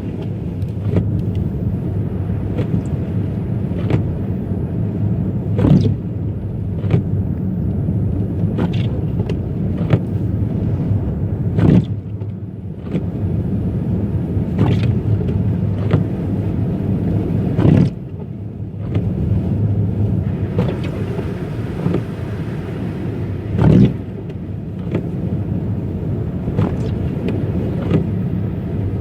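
Car driving on a rough road, heard from inside: a steady low rumble of tyres and engine, with frequent small knocks and a louder thump about every six seconds.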